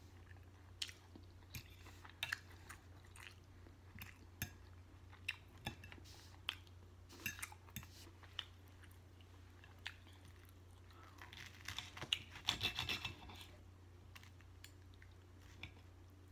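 Mouth sounds of chewing and smacking on steak and vegetables: a string of short wet clicks and smacks a second or so apart. About eleven to thirteen seconds in, a denser clatter of cutlery on the plate.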